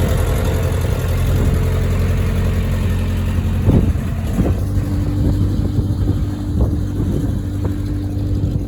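Engine of a farm work machine running steadily, with a couple of knocks about four seconds in and a higher steady tone joining about halfway.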